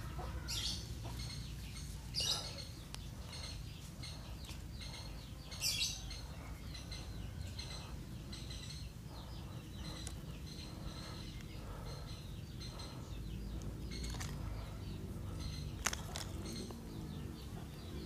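Small birds chirping: short, high calls repeated throughout, loudest a few times in the first six seconds, over a steady low rumble. A single sharp click near the end.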